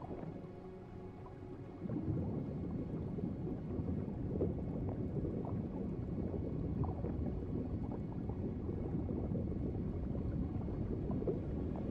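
Underwater ambience: low, steady gurgling and bubbling water with small scattered pops, growing louder about two seconds in.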